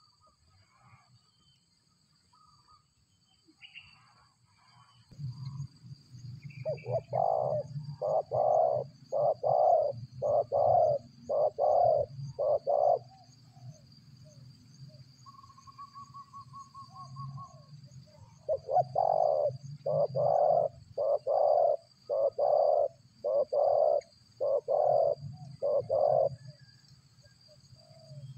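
A bird calling in two long series of evenly repeated hooting notes, about one a second, with a brief high trill between the series. A low hum runs underneath once the calling starts.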